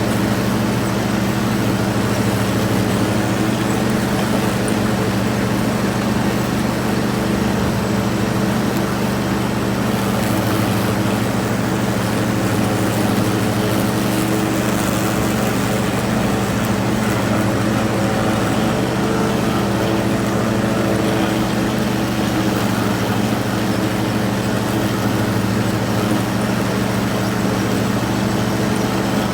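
Riding lawn tractor's engine running steadily at a constant speed.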